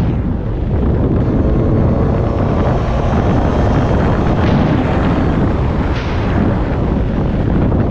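Beta 125 RR two-stroke dirt bike engine running under way, buried in heavy wind buffeting on the microphone.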